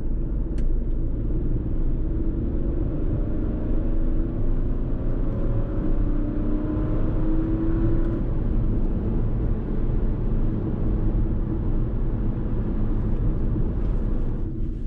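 Fiat Tipo's 1.0-litre turbo three-cylinder petrol engine pulling under acceleration, its pitch rising steadily for several seconds. It then settles into a steady drone over low road rumble.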